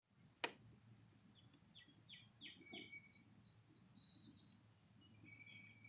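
Faint songbird singing: a quick run of short, repeated down-slurred notes, with a few more notes near the end. A single sharp click about half a second in.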